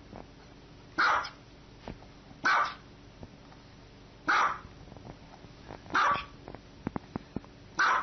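A small dog barking: five single barks at an even pace, one every second and a half to two seconds.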